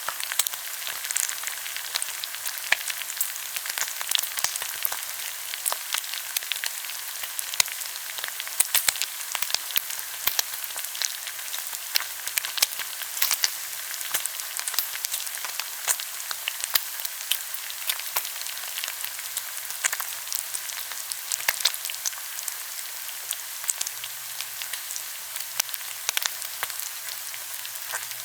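Pork belly sizzling on a hot grill: a steady hiss of frying fat with frequent sharp crackles and pops of spattering grease.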